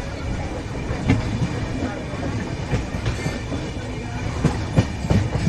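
Passenger coaches of an express train rolling by, a steady rumble with irregular clacks as the wheels cross rail joints.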